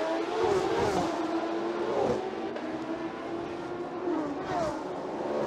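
GT race cars' engines running hard on track, several engine notes overlapping, the main one climbing slowly in pitch as the car accelerates, with a few brief dips.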